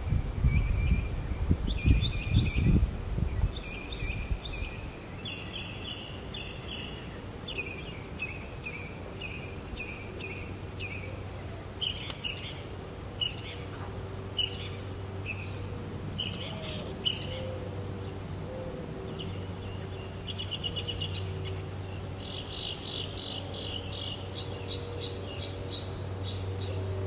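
Songbirds singing in short repeated chirps and quick trills, one phrase after another. There is low rumbling for the first few seconds and a steady low hum underneath.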